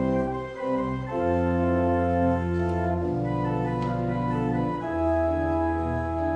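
Organ playing held chords over deep bass notes, the harmony shifting every second or two, as music closing the service after the benediction.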